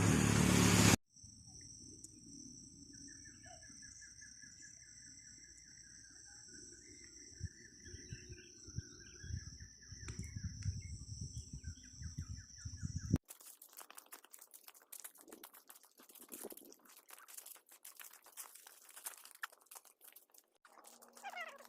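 Outdoor ambience with birds: a rapid chirping trill repeats over a steady high-pitched whine and a low rumble. After an abrupt change about 13 seconds in, faint scattered ticks and crackles take over.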